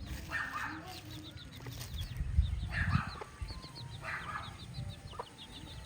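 A flock of free-range chickens clucking, with a few louder squawks and quick, high chirps throughout.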